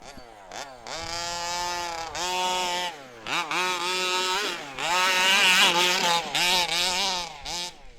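The 29cc two-stroke engine of a 1/5-scale HPI Baja 5B RC buggy revving hard in repeated full-throttle bursts. Its pitch climbs with each burst and drops between them, then falls away near the end.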